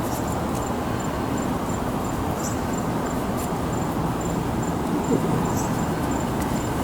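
An insect, cricket-like, chirps in a fast, even pulse, about three chirps a second, over a steady low outdoor noise.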